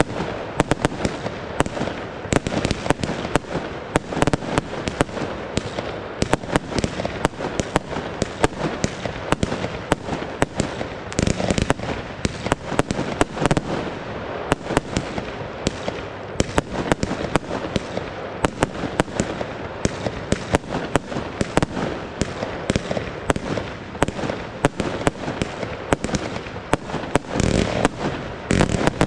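WECO Golden Times compound fireworks cake firing nonstop: a dense, rapid string of launch shots and bursts, several a second, with no pause.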